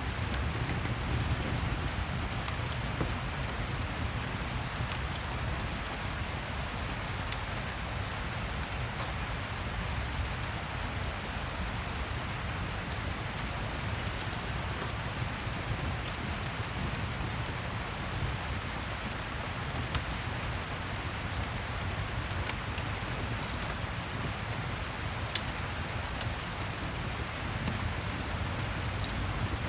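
Steady rain with a low rumble, with occasional sharp crackles and pops from a fireplace, a few seconds apart.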